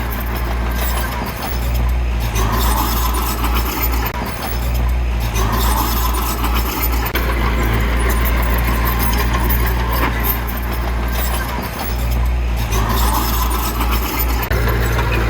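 Heavy earthmoving machinery's diesel engine running steadily, with a higher-pitched whine that comes and goes every few seconds.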